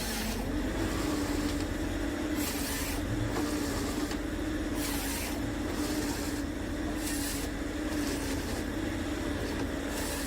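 Forestry harvester's diesel engine running steadily under load. Short bursts of hiss and crackle recur every two to three seconds as the machine works.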